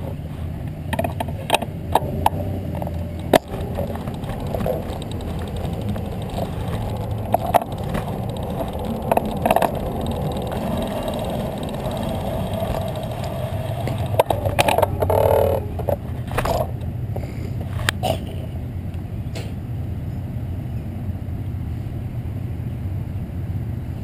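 Bicycle in motion on a road, with steady wind and road rumble on the microphone and scattered sharp clicks and rattles from the bike. The rattling comes thicker about fifteen seconds in.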